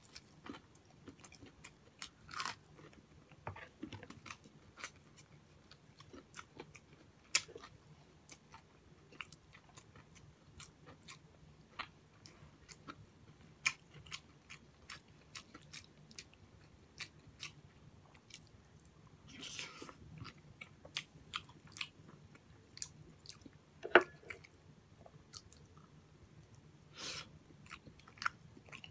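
A person biting and chewing a crisp breaded fried pork chop with rice: scattered crunches and wet mouth clicks, with a few louder crunches now and then.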